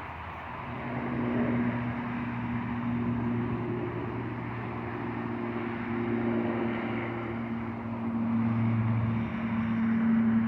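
Steady engine hum, a low drone with a constant pitch and a broad noise over it, rising and falling gently in loudness.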